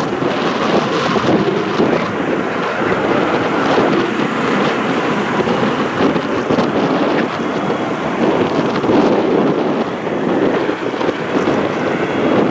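Strong, gusty wind buffeting the microphone: a loud, rough rumble that surges and eases.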